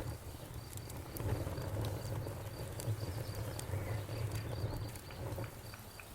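Campfire crackling: scattered sharp pops and snaps over a low rumble of the burning fire, with an insect chirping steadily in the background at about four chirps a second.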